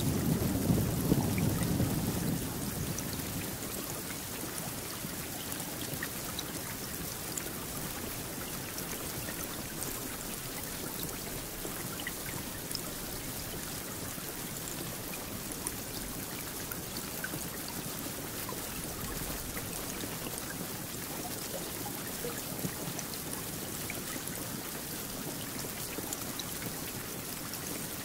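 Steady rainfall, an even hiss with scattered drops ticking. A low rumble of thunder fades out in the first two or three seconds.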